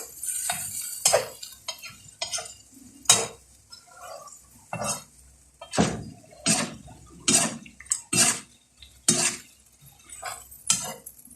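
Cooking utensil knocking and clinking against a frying pan while fava beans are stirred: a string of sharp separate knocks, coming about once every three-quarters of a second in the second half.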